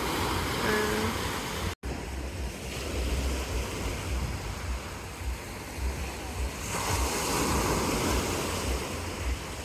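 Sea waves washing on the shore, with wind buffeting the microphone; the wash swells louder and brighter about seven seconds in.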